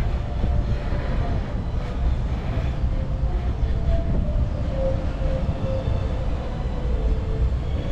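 Parking tram under way: the steady low rumble of the tractor and its trailing passenger cars rolling along, with no sharp knocks or stops.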